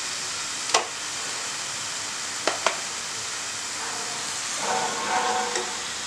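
Yogurt-marinated chicken sizzling in a hot pan with sautéed onions, a steady hiss throughout. A few sharp clicks of a spoon against the pan come about a second in and twice at about two and a half seconds. Near the end the spoon scrapes and turns the chicken.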